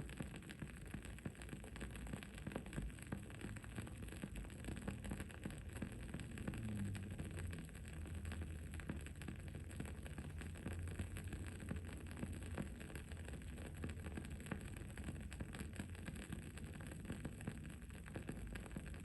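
Wood-wick candle crackling steadily, a quick run of tiny pops and ticks, over a low background hum that drops in pitch about seven seconds in.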